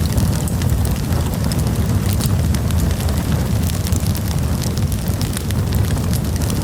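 Wood campfire burning, with a steady low rumble and many quick, sharp crackles and pops from the burning wood.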